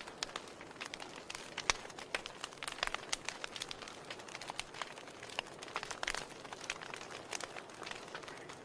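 Wood fire burning in a fireplace, crackling with irregular sharp pops and snaps over a soft steady hiss; one louder pop about two seconds in.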